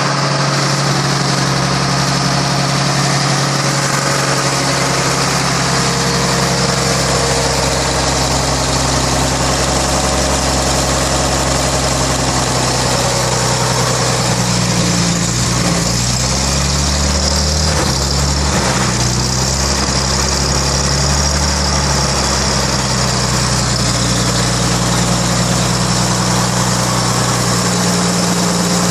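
1933 Chevrolet's rebuilt straight-six engine idling steadily on its first run in decades, its speed wavering for several seconds around the middle before settling back.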